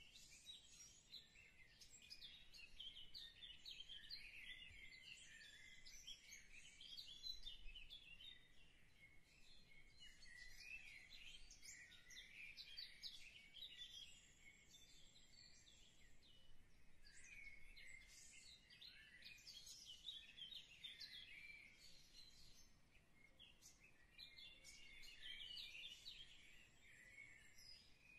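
Faint chorus of small birds chirping and twittering, many short high calls overlapping without a break.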